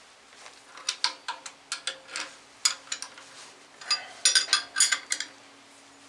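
Wrench and steel bolts clinking and clicking as nuts are held and turned on carriage bolts, with a quick run of clicks about four seconds in.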